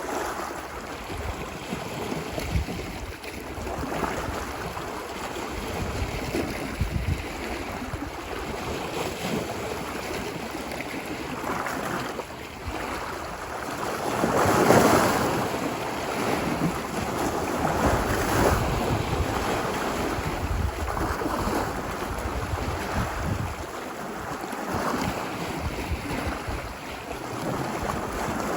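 Ocean surf washing ashore in repeated swells, the largest breaking about halfway through, with wind rumbling on the microphone.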